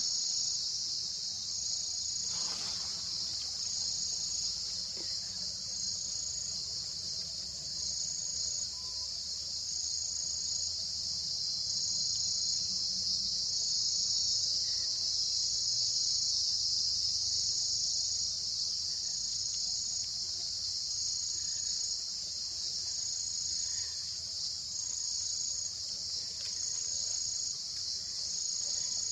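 A steady chorus of insects: a continuous high shrill hiss, with a higher pulsed note repeating about every second and a half.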